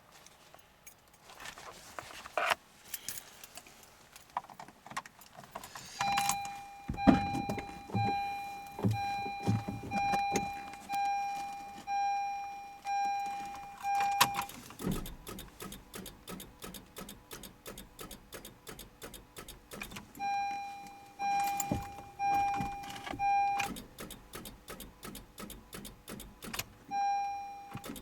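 Honda CR-Z failing to start in −30 °C cold. Keys rattle at first; then a dashboard warning chime beeps about once a second in two long runs and once more near the end. Through most of it there is a fast, even clicking.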